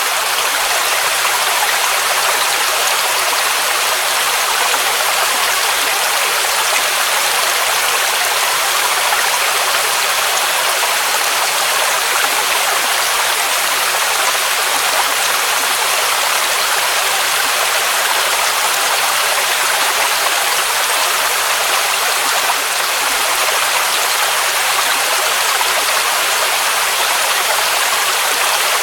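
Waterfall: water cascading steadily in a constant, even rush with no change in level.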